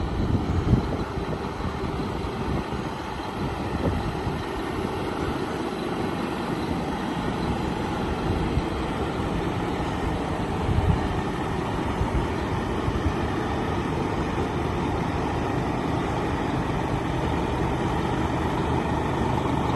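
Scania P-series tanker truck's diesel engine idling steadily.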